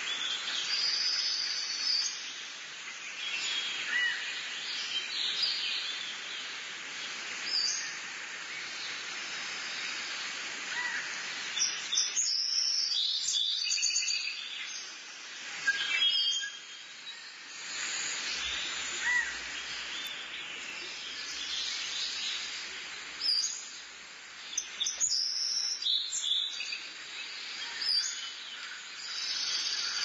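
Birds chirping and calling in short, scattered phrases over a steady hiss of outdoor background noise.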